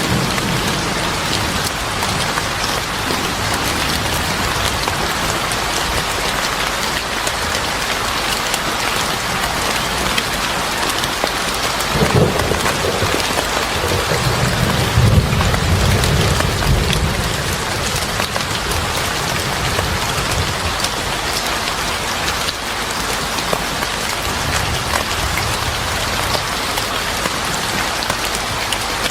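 Steady rain falling on surfaces with thunder rumbling: a short low rumble about twelve seconds in, then a longer roll a few seconds later, and a fainter one later on.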